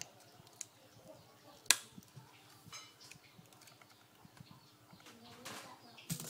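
Scattered light clicks and taps from hands working on an Acer netbook and its keyboard, with one sharp click a little under two seconds in, over a faint steady hum.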